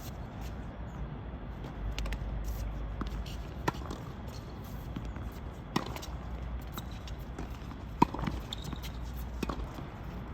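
Tennis rally: sharp racket-on-ball strikes roughly every two seconds, the loudest about eight seconds in, with lighter ball bounces between them.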